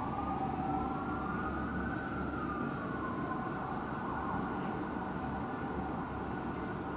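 Fire truck sirens wailing: two siren tones overlap, each slowly rising and falling in pitch, and they settle into steadier tones in the last couple of seconds. A low rumble runs underneath.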